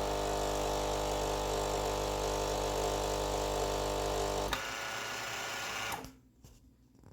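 A steady mechanical hum that drops in level about four and a half seconds in and cuts off about a second and a half later.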